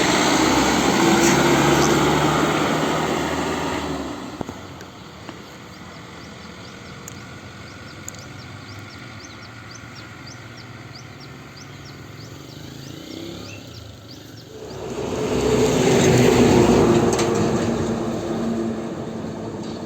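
Two heavy vehicles pass on the road: the first goes by and fades within the first four seconds, and after a quieter stretch a second one comes up about fifteen seconds in, loudest a couple of seconds later, then dies away. Faint high chirping runs through the quiet stretch between them.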